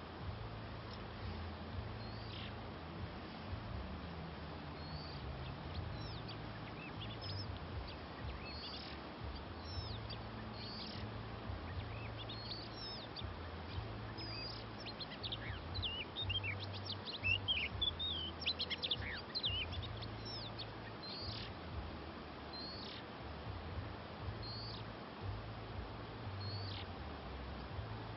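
Oriental magpie-robins calling: short, sharp, high notes every second or two, breaking into a louder burst of rapid, varied song in the middle.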